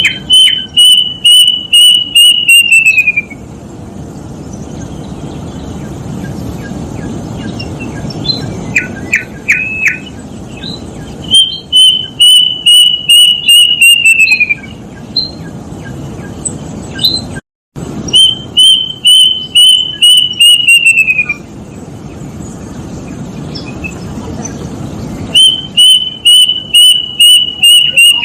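Plaintive cuckoo (kedasih) singing: four runs of about eight to ten clear whistled notes, each run about three seconds long, holding level and then falling in pitch at the end. A few short rising notes come between the runs.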